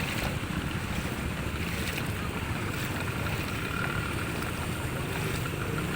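Steady low rumbling outdoor noise, with wind buffeting the microphone.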